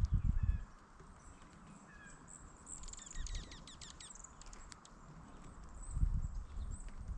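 Small songbird giving a brief rapid series of high, downward-sweeping notes about three seconds in, with a few faint chirps. Low thumps at the start and again about six seconds in.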